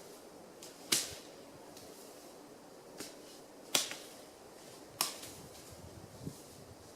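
Dry wood being broken up for firewood: three sharp cracks, about a second in, near four seconds and at five seconds, with two fainter knocks between them.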